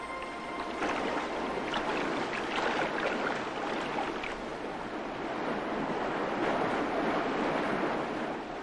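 Steady surging water noise like surf or a strong current, with irregular small splashy flecks through it.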